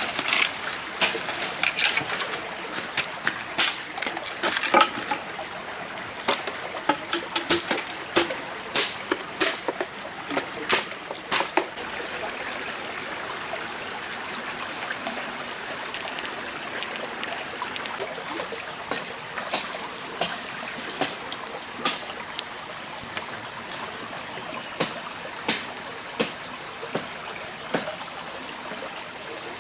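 Stream water running steadily, with many sharp short sounds over it: frequent in the first twelve seconds, then sparser.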